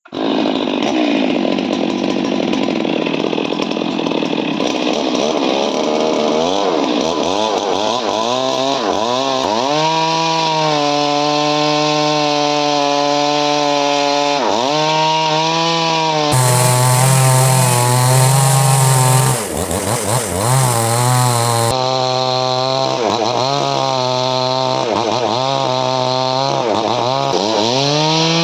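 Stihl MS 382 two-stroke chainsaw running at high revs while cutting wood, its pitch repeatedly sagging under load and climbing back as the chain bites and frees. About sixteen seconds in, the sound turns harsher for several seconds.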